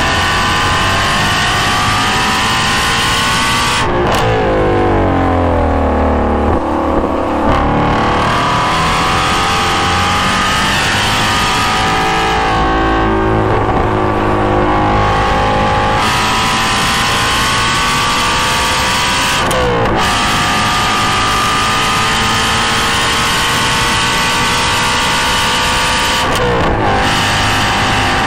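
2016 Shelby GT350's flat-plane-crank V8 at full throttle through a GT350R exhaust, recorded close to the tailpipes: the revs climb and break sharply at each upshift, and fall away under braking about four seconds in.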